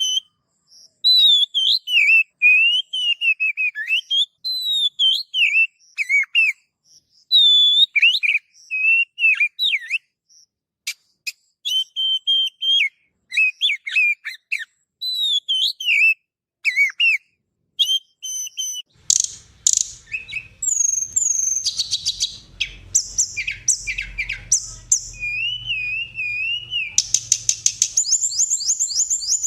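Recorded songbird song: varied whistled phrases that glide up and down, separated by short pauses. About 19 seconds in, a different recording takes over, with dense chirping over a low hum and a fast, rapidly repeated trill near the end.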